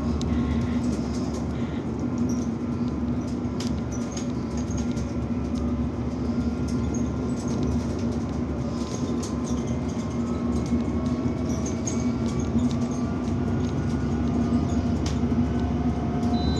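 Steady mechanical hum with a constant low drone, faint tones that slowly glide in pitch, and scattered light clicks.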